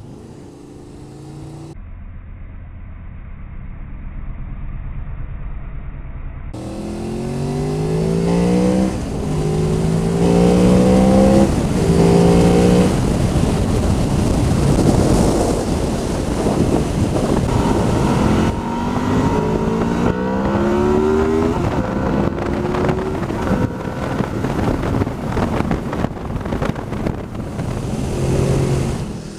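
Motorcycle engine accelerating hard through the gears, its pitch climbing and dropping back at each upshift, several times in a row about a third of the way in and again later, over steady wind rush.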